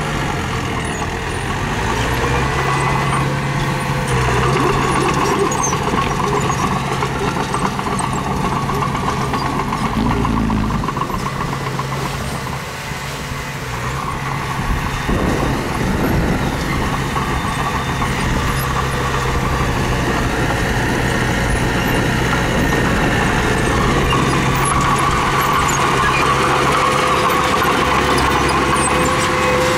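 Heavy diesel engine of construction machinery running steadily, its note shifting slightly with load and easing off briefly about midway.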